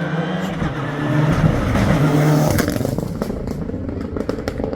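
Historic rally car engine revving hard as the car goes by, loudest about two seconds in. A run of sharp crackles follows as it fades.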